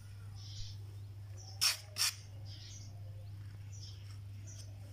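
Small birds chirping now and then over a steady low hum, with two sharp clicks a third of a second apart a little under two seconds in.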